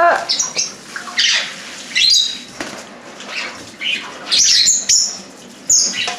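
Freshly bathed pionus parrot flapping its wetted wings in a run of short bursts to shake off the water, with a few brief high squawks among them.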